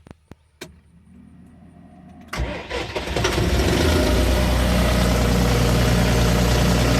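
A few clicks, then a farm tractor's engine starts about two and a half seconds in and settles at once into a steady idle with a strong low hum.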